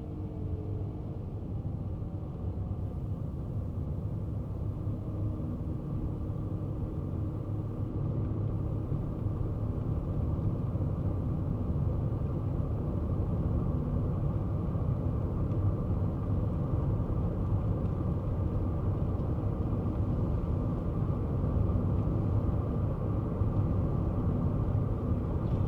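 Kei car driving: a steady low rumble of engine and tyre road noise, growing slowly louder through the stretch.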